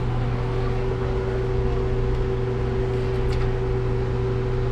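Vehicle engine running, a steady low hum with a constant tone above it.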